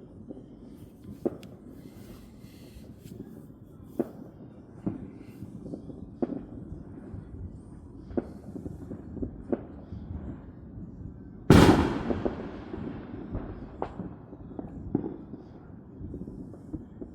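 Neighbourhood fireworks and firecrackers going off, a scattered run of distant bangs over a low rumble. About two-thirds of the way through, one much louder blast rings out and fades away slowly.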